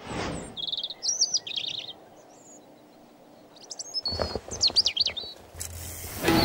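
Songbirds singing in two short spells with a quiet gap between: a quick trill and several short high whistled phrases. A low rushing rumble runs under the second spell.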